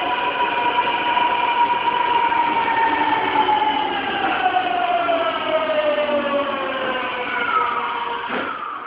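Tokyu 2000 series train's Hitachi GTO-thyristor VVVF inverter motor whine while the train slows under braking: several siren-like tones glide steadily down in pitch, then cut off near the end as the inverter stops working.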